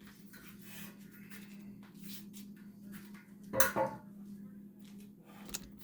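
Handling noises: rustling and scattered clicks over a steady low hum, with one louder knock and clatter about three and a half seconds in.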